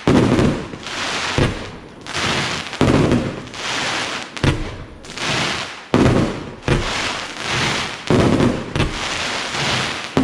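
Fireworks battery (cake) firing in steady succession: a sharp bang about every second or so, each followed by about a second of hissing crackle.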